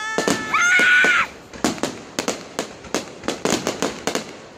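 Fireworks bursting overhead: a rapid run of sharp bangs and crackles, about three a second. A high, wavering pitched sound rises over them in the first second and is the loudest moment, then breaks off.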